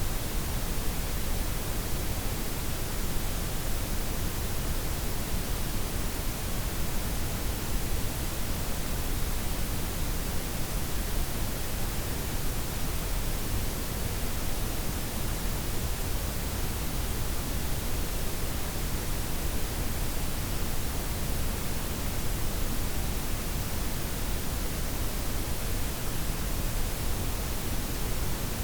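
Steady synthetic noise: a blend of white, pink and brown noise with the highs gently rolled off, an even hiss with a deep low rumble underneath and no changes.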